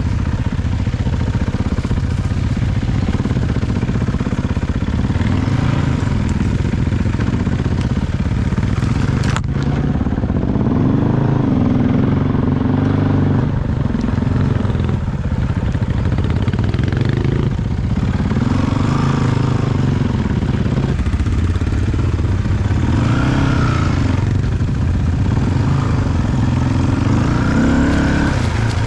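Off-road vehicle engine being ridden, the revs rising and falling again and again as the clutch is feathered. There is one sharp knock about nine seconds in.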